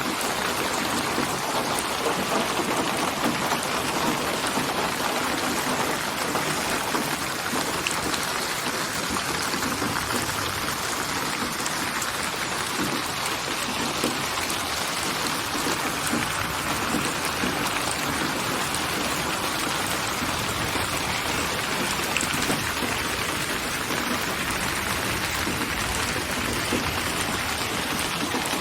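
Steady rain falling, an even hiss of dense drops with a faint patter of individual drops on a surface.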